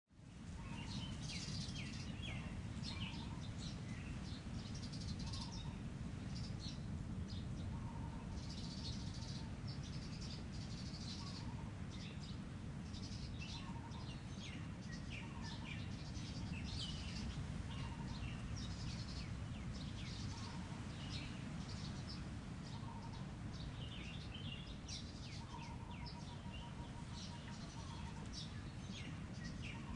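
Many birds chirping and trilling, high-pitched and overlapping, with a short lower call repeating every couple of seconds over a steady low rumble.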